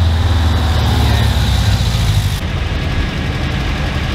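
Air-cooled Volkswagen engines running as old VWs drive past, a steady low drone. About two and a half seconds in the sound changes abruptly, a cut to another car.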